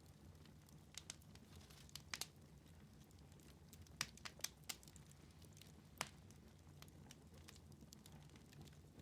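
Wood fire in a fireplace crackling faintly: scattered sharp pops over a low steady rumble, with a quick cluster of four pops about four seconds in.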